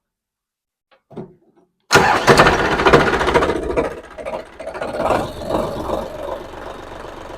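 Diesel tractor engine starting from cold: it catches suddenly about two seconds in, runs loud for a second or so, then settles to a steady idle.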